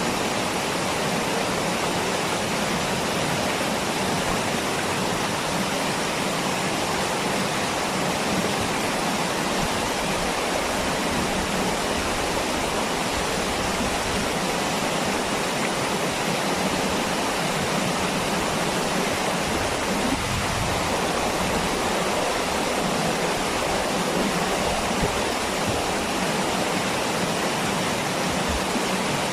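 Waterfall water rushing and splashing in a steady, even roar.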